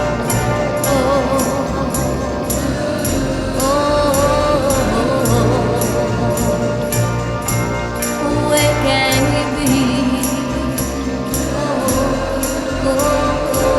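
1960s girl-group pop record: a woman's voice singing over a dense full band, with a high percussion tick about twice a second.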